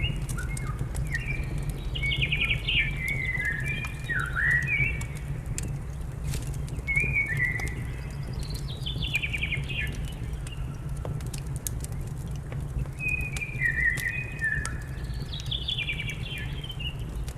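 A songbird singing, three phrases of short whistled notes each ending in a quick trill, roughly every six seconds. Under it are scattered crackles of a wood fire and a steady low rumble.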